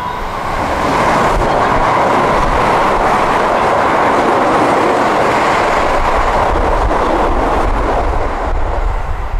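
Keio 7000-series electric commuter train running through a station platform at speed without stopping. Its wheels rush on the rails as a loud, steady noise that builds over the first second and holds until near the end.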